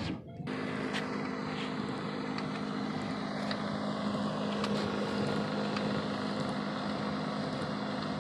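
Nissan 350Z's windshield wipers running again, with the car switched on: a steady mechanical hum that starts suddenly about half a second in, with a few faint ticks.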